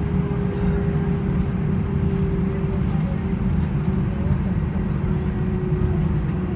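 Airbus A320 cabin noise while taxiing after landing: a low, steady rumble with a faint steady hum above it.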